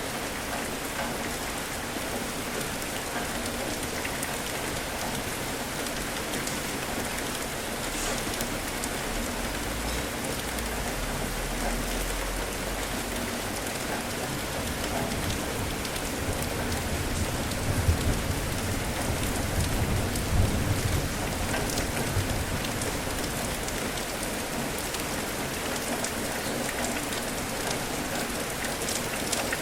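Steady rain falling on a surface, with a low rumble of thunder swelling through the middle.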